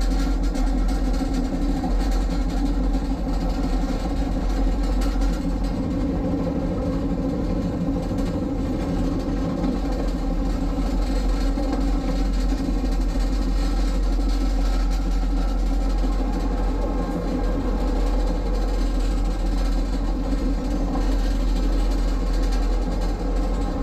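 Train running steadily along the track, its engine giving a continuous low drone with rumbling noise over it and no breaks.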